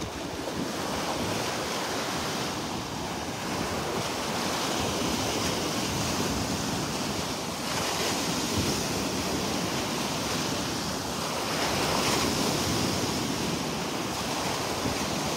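Gulf of Mexico surf washing up on the beach, its hiss swelling and easing every few seconds, with wind buffeting the microphone.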